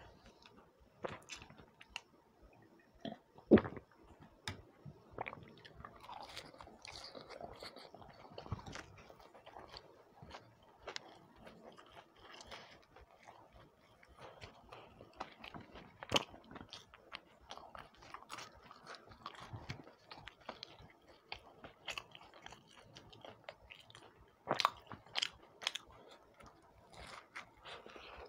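Close-miked mouth sounds of a person eating fried kakra pitha and pakoda by hand: biting, crunching and wet chewing as a run of small irregular crackles. There is one sharp loud crunch about three and a half seconds in, and a cluster of strong ones near the end.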